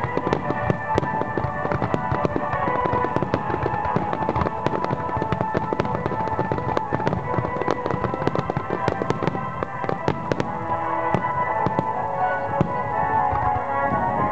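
Fireworks bursting and crackling in quick succession over music, the bangs thinning out near the end.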